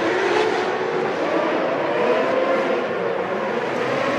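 Engines of 1993 Formula One cars running at high revs. The pitch rises and falls as the cars accelerate and ease off.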